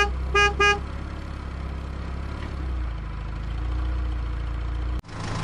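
A vehicle horn honks: a note ending just as it starts, then two quick short beeps, followed by a steady low engine hum. Near the end the sound cuts off abruptly and a hissier noise follows.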